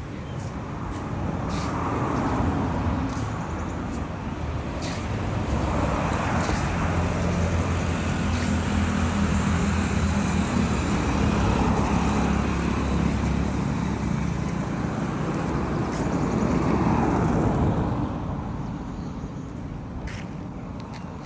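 Road traffic going by: several vehicles pass one after another, each swelling and fading, with a heavy vehicle's low engine running through the middle.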